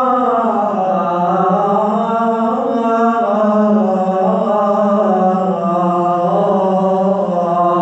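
Male voice chanting an Islamic ibtihal, drawing out a long melismatic line that glides up and down in pitch without a break.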